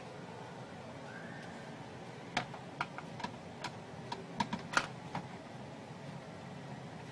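An irregular run of about a dozen light, sharp clicks and taps over a steady faint hiss, starting about two and a half seconds in and stopping about two and a half seconds later.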